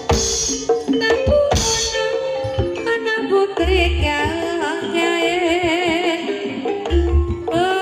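Live Banyumasan ebeg accompaniment music: a gamelan-style ensemble with sustained metallophone tones and drum strokes, and a singer's line wavering with vibrato in the middle. Heavy low drum strokes fall about four and seven seconds in.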